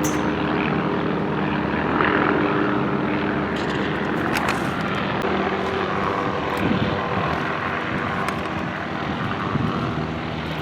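Aircraft engines running, a steady drone with a low hum of several tones.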